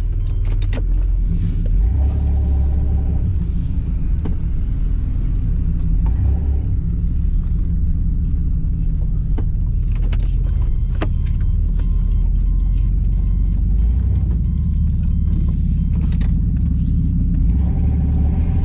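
Off-road 4x4's engine and drivetrain rumbling inside the cabin as it drives slowly on a wet road, the engine note coming up briefly about two seconds in and again near the end, with scattered clicks and knocks.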